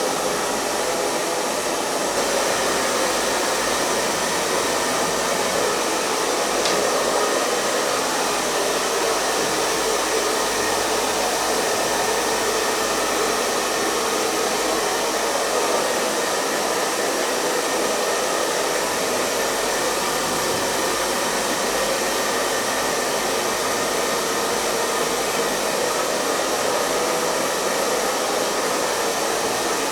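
Hair dryer running steadily, a continuous airy rush of fan and blowing air with a faint steady whine.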